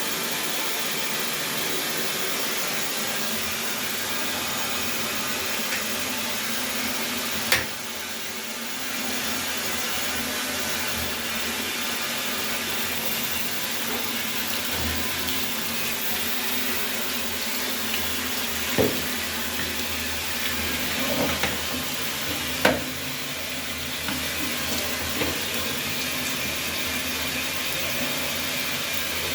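Steady rushing hiss of water running through household plumbing, with three short sharp knocks spread through it.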